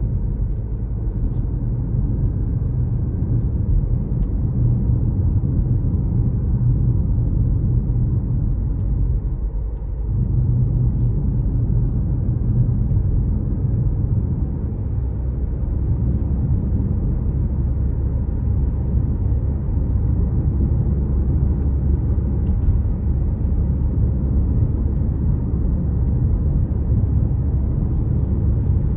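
A car driving along a road: a steady low rumble of engine and tyres that eases briefly about ten seconds in, with a few faint ticks.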